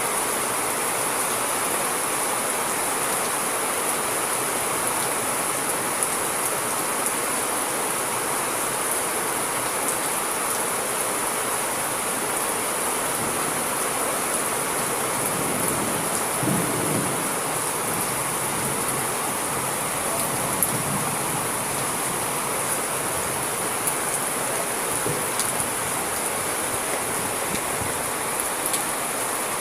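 Steady, heavy rainfall with scattered drop ticks, and a brief low rumble about halfway through.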